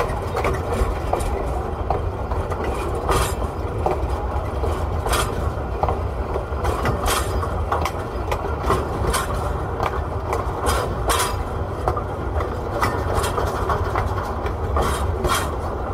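Train running on rails: the wheels click over the rail joints again and again, some clicks in close pairs, over a steady rumble.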